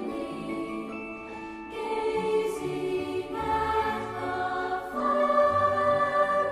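Choral music: voices holding sustained chords that change every second or two.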